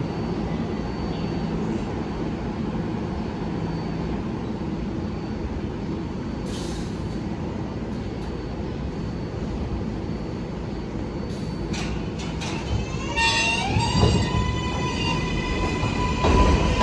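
New York City Subway R142-family train: a steady rumble, then, about 13 seconds in, the traction motor whine rises in pitch as several tones together and settles into a steady high hum as the train picks up speed. It grows louder near the end.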